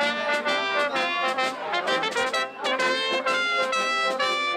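Brass band playing, a series of short notes changing in quick succession over a steady rhythm.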